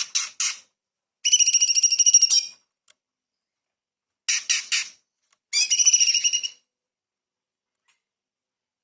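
Orange-bellied leafbird singing high, sharp phrases: three quick notes, then a rapid trill about a second long, the whole phrase given twice with pauses between.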